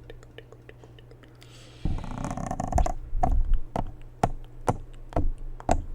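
A jar of water handled close to the microphone for ASMR: a loud sloshing burst about two seconds in, then a run of sharp knocks about twice a second.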